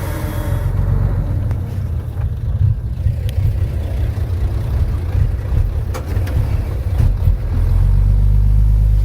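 Heavy diesel engine of earthmoving machinery running under load, a deep steady rumble with a few sharp metallic clanks. It evens out into a steadier, slightly louder drone near the end.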